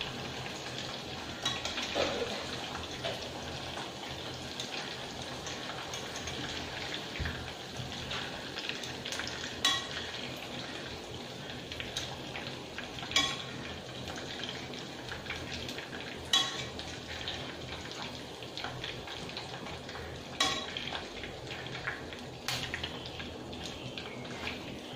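Chicken liver deep-frying in oil with a steady sizzle, while metal tongs clink sharply every few seconds as pieces are lifted out of the pan.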